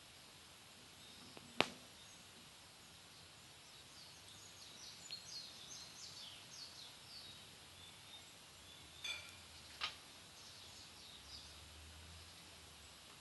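Wood fire burning in a Picogrill 498 fire pit: one sharp pop about a second and a half in and two quieter snaps later on, over a faint steady hiss. Between them, small birds twitter in a run of quick, high, falling chirps.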